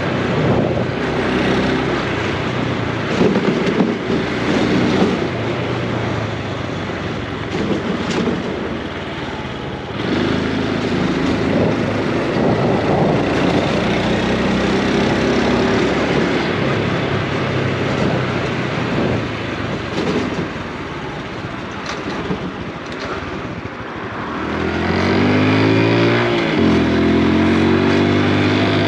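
Honda Super Cub C125's single-cylinder four-stroke engine and exhaust while riding on the road. The engine pitch steps up and down with speed and gear changes. Near the end it rises as it accelerates, then drops at a shift.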